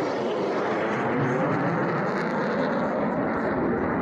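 Airplane in flight, its engine noise a steady rushing sound.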